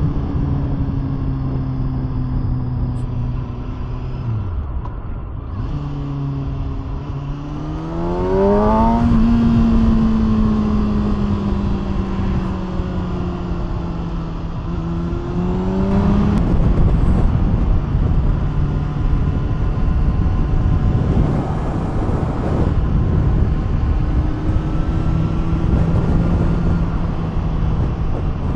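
Kawasaki ZX6R's inline-four engine through an aftermarket SC Project exhaust, heard while riding. The engine note drops away about four seconds in, climbs steeply as the throttle opens around eight seconds, then holds fairly steady with another brief rise near sixteen seconds, over a steady rush of noise.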